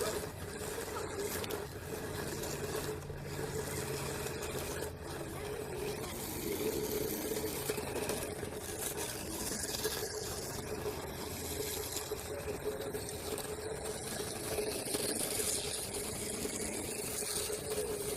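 Small electric motor of a toy RC car running with a steady, slightly wavering whine, the car driving through mud.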